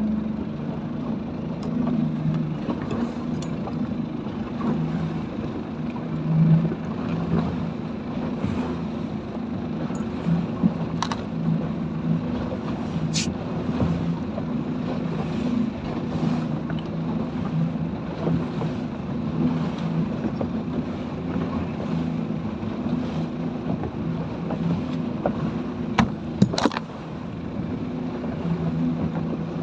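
Small speedboat's engine running at a steady pitch over wind and water noise, with a few sharp knocks on the boat about a third of the way in and again near the end.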